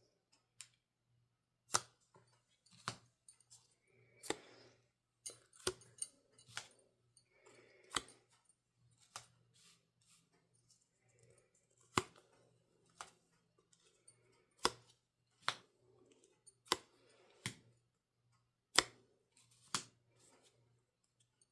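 Small photo cards being handled and laid down on a table: irregular light clicks and taps, about one a second, with brief soft rustles between them.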